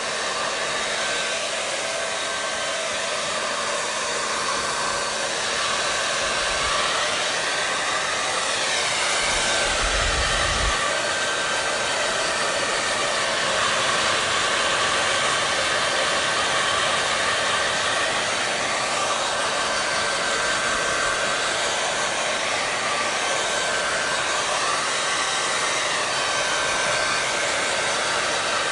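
Hand-held hair dryer running steadily: continuous rushing airflow with a faint steady whine from the motor, and a brief low rumble about ten seconds in.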